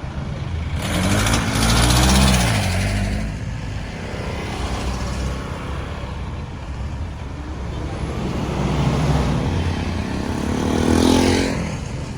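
Busy road traffic: motor vehicle engines passing close over a steady low rumble, loudest about two seconds in and again near the end, their pitch bending as they go by.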